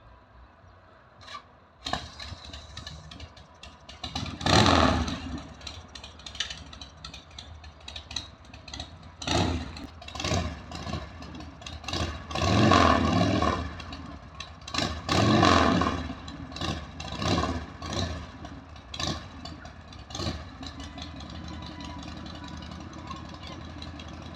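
Motorcycle engine coming in suddenly about two seconds in and revved in several loud surges, then settling to a steady idle near the end.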